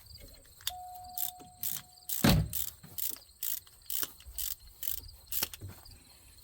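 Hand tools working on the truck's front brake parts: a run of short, sharp metallic clicks, about two a second, with one loud clank a little over two seconds in.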